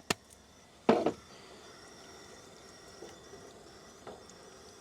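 Camp cooking: one short rattling clatter about a second in, as salt goes into a pot of water near the boil, then a faint steady hiss with a couple of light ticks.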